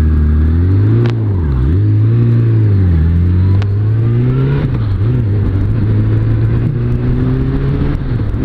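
Suzuki Bandit 600S inline-four engine pulling away under load. The revs rise and drop back three times, about one and a half, three and five seconds in, as it shifts up through the gears, then hold steady at cruise.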